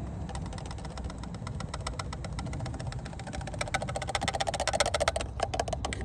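Rapid, even run of clicks from a ratchet wrench fastening the last part back on after the oil change, growing louder near the end and stopping about five seconds in, followed by a few single clicks.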